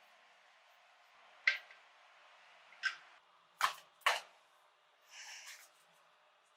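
Four sharp clicks spread over about three seconds, then a short scraping noise near the end.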